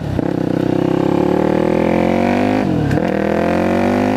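2006 Yamaha WR450F supermoto's single-cylinder four-stroke engine accelerating under a rider. Its pitch rises steadily, drops at a gear change just before three seconds in, then climbs again. It is loud through an FMF slip-on muffler that is blown out and, the rider is sure, needs repacking.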